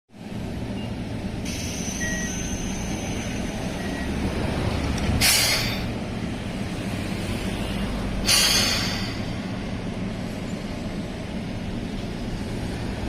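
Keihan 600 series two-car electric train standing at a station with its equipment humming steadily, and two short sharp hisses of compressed air from its pneumatics, about five and eight and a half seconds in.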